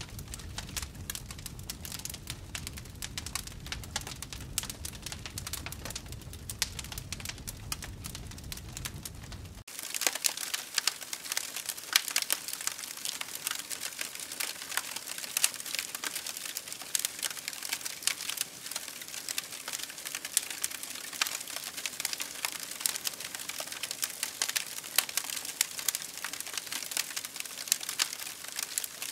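Campfire crackling and popping with many sharp snaps. About ten seconds in the sound changes abruptly: a low rumble drops out and the crackling becomes brighter and denser.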